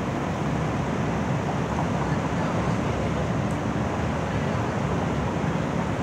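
Steady low rumble of city street noise, with no distinct events standing out.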